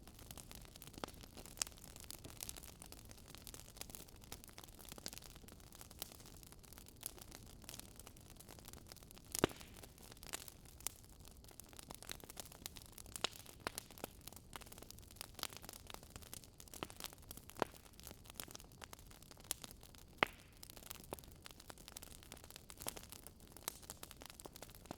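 Wood fire crackling: irregular sharp pops and snaps over a low steady hiss, with a few louder snaps scattered through.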